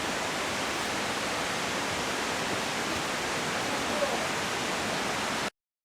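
Steady rushing noise of flowing water, even and unbroken, which cuts off suddenly near the end.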